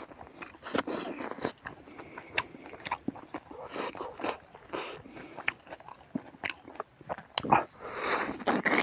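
Close-up wet chewing and lip-smacking as a man eats a mouthful of rice and smoked pork by hand. The clicks and smacks come irregularly, with a louder stretch near the end.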